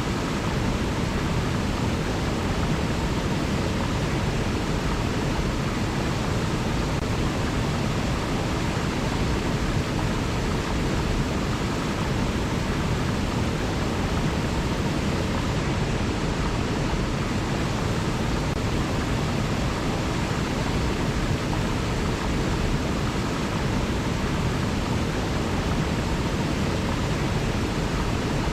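River water flowing with a steady, unbroken rushing, heaviest in the low end, with no single splashes or other events standing out.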